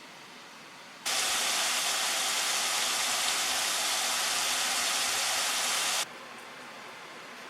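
A loud, even rushing hiss that switches on abruptly about a second in and cuts off suddenly about five seconds later, over a faint steady background hiss.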